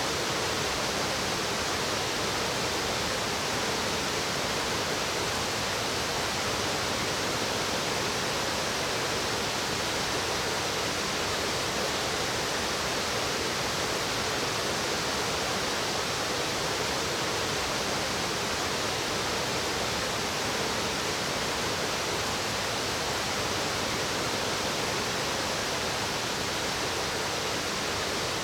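Steady rush of flowing water in a mountain stream, an even hiss with no breaks or changes.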